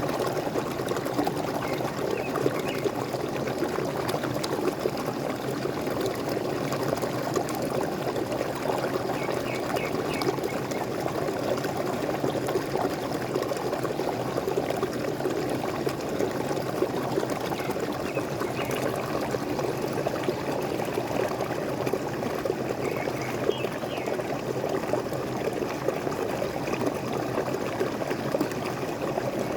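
Waterfall water splashing and running steadily, with a few faint bird chirps every several seconds.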